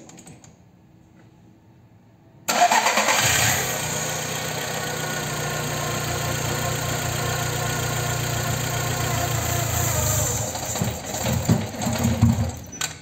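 Seat Ibiza 1.4 petrol engine starting about two and a half seconds in, revving briefly and settling to a steady idle. It turns uneven and dies near the end: the start-then-stall fault that remains after the coolant temperature sender was fixed.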